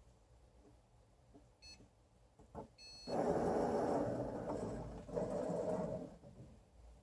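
Excalibur Mirage robotic chess computer beeping twice briefly. About three seconds in, the motors driving its electromagnetic head under the board start running. They run for about three seconds, with a short break partway through.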